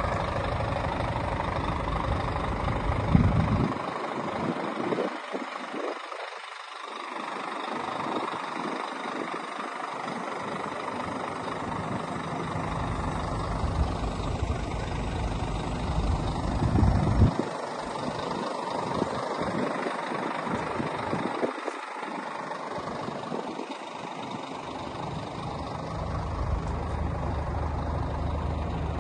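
Scania P124's 12-litre straight-six diesel idling steadily.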